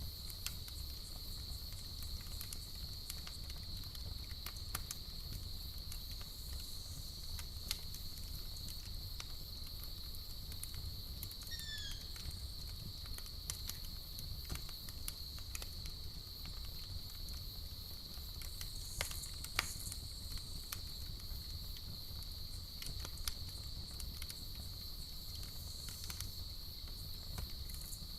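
Campfire crackling with scattered sharp pops over a low rumble, set against a steady, high-pitched chorus of crickets. A brief falling chirp sounds once about twelve seconds in, and the loudest pop comes about twenty seconds in.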